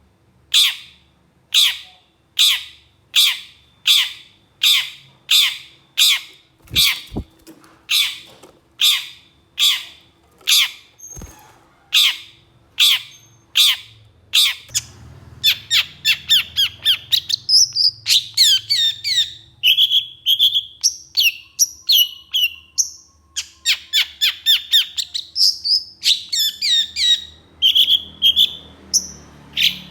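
Long-tailed shrike giving harsh, rasping calls, evenly repeated about one and a half times a second. About halfway through it breaks into a fast, varied chattering song with short whistled notes.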